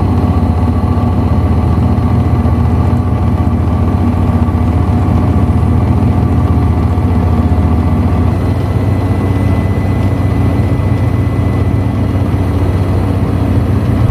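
A steady, unchanging engine hum with a deep low drone and a faint thin whine above it.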